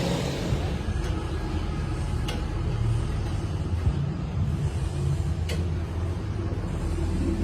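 An engine running steadily with a low rumble, with a few sharp clicks about a second, two seconds and five and a half seconds in.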